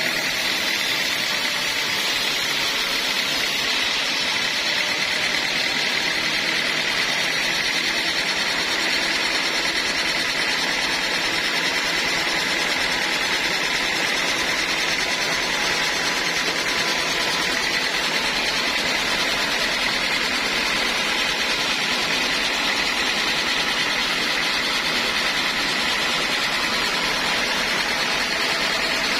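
Sawmill machinery running steadily while cutting teak logs: a constant loud rushing noise with a steady high tone, with no breaks or changes.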